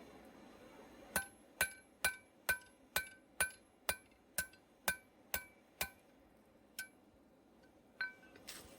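Hand hammer striking metal on an anvil-shaped object, each blow ringing: eleven even strikes about two a second, then a pause and two more single blows.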